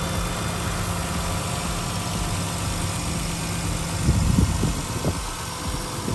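Toyota Aristo's 2JZ-GTE twin-turbo straight-six idling steadily, with a few low thumps about four seconds in.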